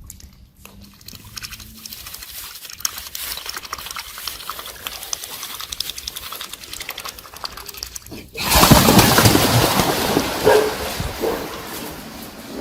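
A run of light clicks, then about eight seconds in a sudden loud commotion as a dog barks and chases two swans, the swans splashing and flapping away in alarm, with a few short calls among the noise.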